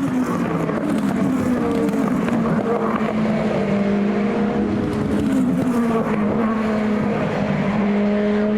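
Several endurance race cars running past at speed, their engine notes overlapping; the pitch of some drops as they go by, over a steady engine note throughout.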